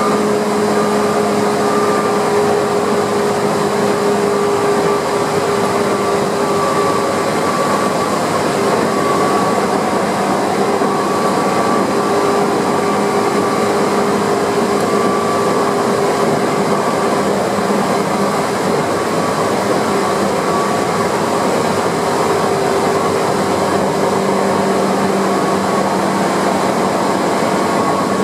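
Tokyu 8500 series electric commuter train running at steady speed, heard from the driver's cab: a constant rumble of wheels on rail with a few steady humming tones from the running gear.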